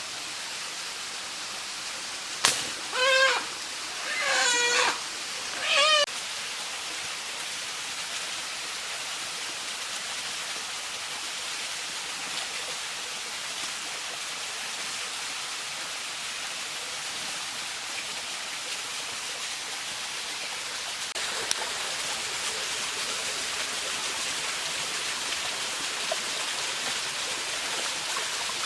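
Steady hiss of falling water, with a sharp click and then three short, wavering animal calls a few seconds in; about two-thirds of the way through the hiss grows louder and brighter.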